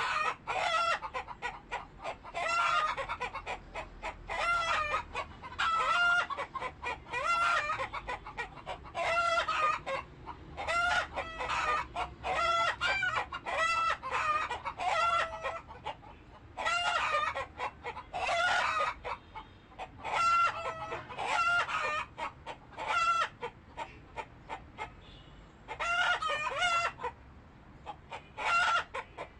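Domestic chickens calling over and over: short repeated clucks and cackles, with crowing among them.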